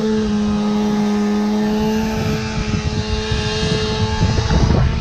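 Two-stroke chainsaw revved up and held at full throttle, a steady high engine pitch. About four seconds in the steady note breaks up into rougher, uneven noise.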